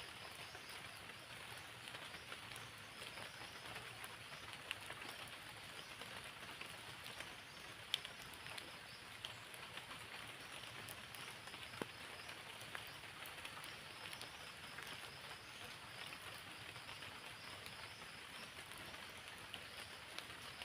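Steady rain falling, a faint even hiss scattered with small drop ticks and a couple of sharper clicks, one about eight seconds in.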